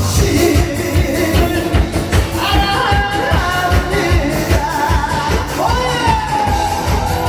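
Amplified live music: a singer's voice over a backing track with a steady drum beat, the voice most prominent from about halfway through.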